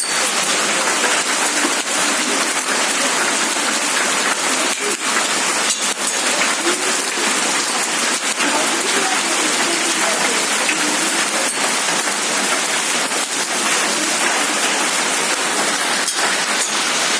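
Heavy rain mixed with hail falling: a steady, even hiss of rain with many sharp ticks of ice pellets striking throughout.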